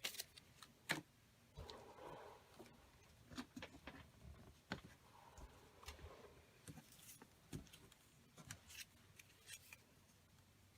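Scissors snipping paper in short, irregular cuts, with light paper handling between them.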